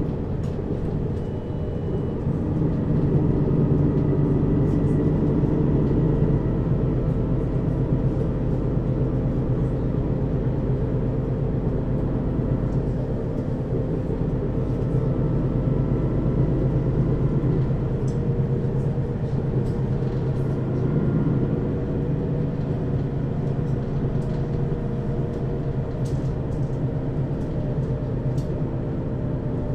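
Mercedes-Benz Citaro O 530 city bus with a ZF Ecomat automatic gearbox driving, its diesel engine and driveline heard from inside the bus above the rear axle. The engine runs steadily, a little louder from about three seconds in.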